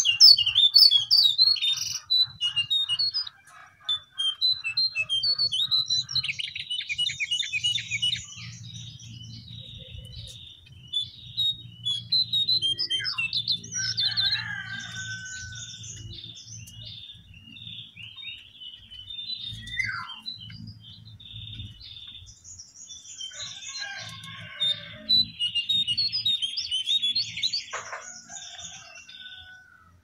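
Small songbirds chirping and trilling in quick high notes, busiest at the start and again near the end, over a faint low hum.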